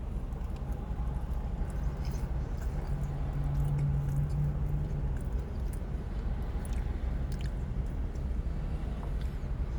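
A person chewing a bite of cheesesteak sandwich, faint clicky mouth noises, over a steady low rumble with a hum that swells a few seconds in.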